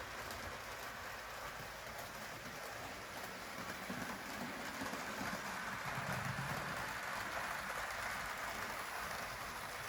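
HO scale model train running around the layout, its Walthers Trainline GP15-1 locomotives and cars rolling on the track with a steady low hiss and rumble that grows a little louder about four seconds in.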